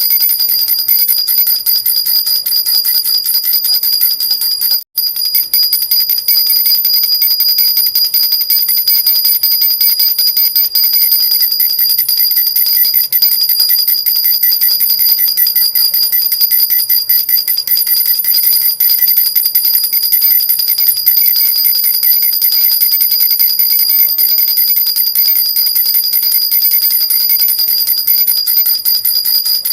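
Silver jhunjhuna, an Indian baby rattle with small bells, shaken continuously: a steady high metallic jingling that cuts out for an instant about five seconds in.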